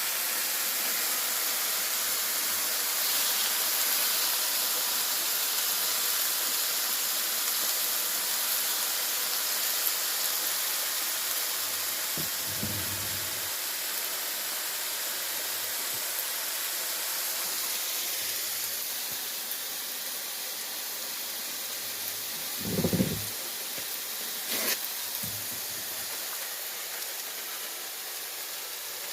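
Chicken hearts sizzling on a greased grill: a steady, high hiss that eases slightly in the second half. A few short knocks come through, the loudest about two-thirds of the way in.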